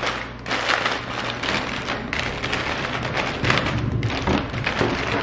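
Small plastic chip bags crinkling and rustling as they are lifted from a cardboard box and stacked on a cart shelf.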